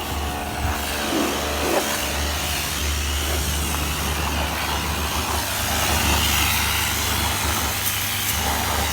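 Car wash running: water spraying with a steady hiss over a constant low machine hum.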